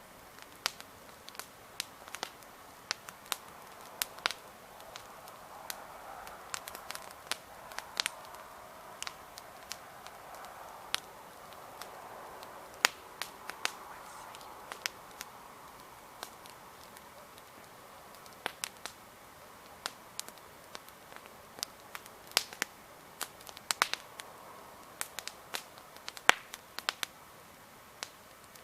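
Wood campfire crackling: burning logs give frequent, irregular sharp pops and snaps, with a soft rushing underneath that swells for a while midway.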